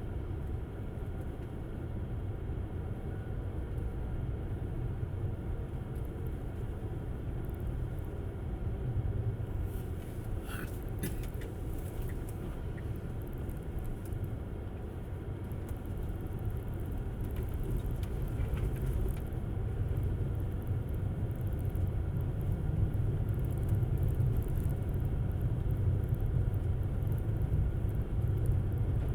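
Steady low road and tyre rumble of a Tesla Model S driving on a snowy road, with no engine note, growing a little louder in the last third. A few brief clicks sound about ten seconds in.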